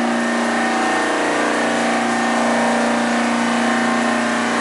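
Compressor of a circa-1983 mechanical water chiller running, a loud, steady hum with a constant pitch and a noisy haze over it, with one of its four compressors on.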